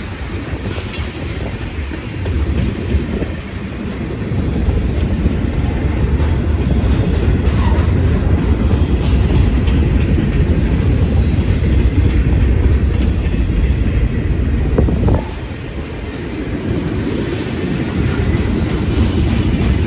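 A train rolling past on the track: a loud, steady rumble of the wheels with clacking over the rail joints, easing briefly about fifteen seconds in before building again.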